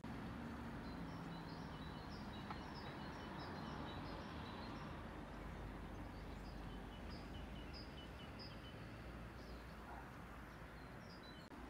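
Quiet outdoor ambience: a small bird calling over and over with short high chirps, about two a second, over a steady background hiss.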